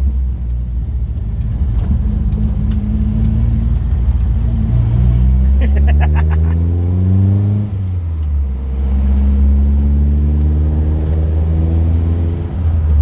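Classic car's engine heard from inside the cabin while driving: a steady low note that rises in pitch as the car accelerates from about five seconds in, drops abruptly at a gear change near eight seconds, then climbs again. A brief rapid rattle sounds about six seconds in.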